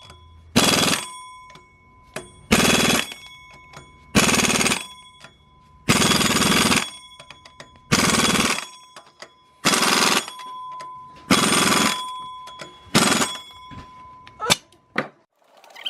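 Impact wrench hammering on bolts in about eight short bursts, one every one and a half to two seconds, with a faint metallic ringing hanging between them and two sharp clicks near the end.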